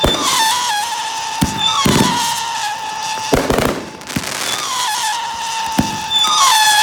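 Fireworks going off: several whistles that fall in pitch and then hold a steady note, with a few sharp bangs among them.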